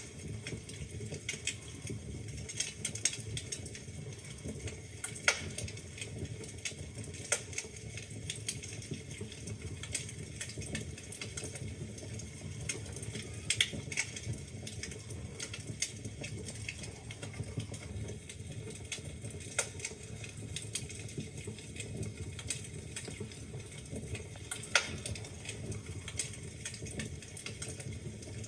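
Wood fire burning in a fireplace, logs crackling with frequent small pops and a few louder snaps over a steady low rumble of flames.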